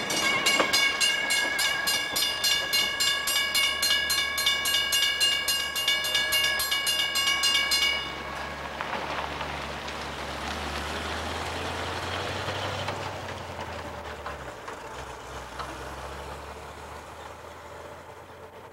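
Southern Pacific freight cars rolling past close by, their wheels giving a loud, high-pitched metallic squeal that pulses several times a second as the train descends the grade. The squeal stops suddenly about eight seconds in as the last boxcar passes, leaving a rumble from the train that fades as it moves away.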